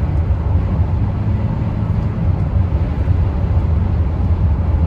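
Old pickup truck's engine and road noise heard from inside the cab while driving, a steady low drone. The engine is running well.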